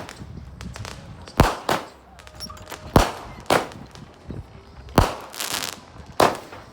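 Backyard fireworks going off: four sharp bangs about one and a half to two seconds apart, each followed by a short crackle.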